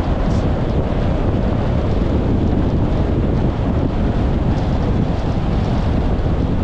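Car driving: steady low road and tyre rumble mixed with wind noise on the microphone.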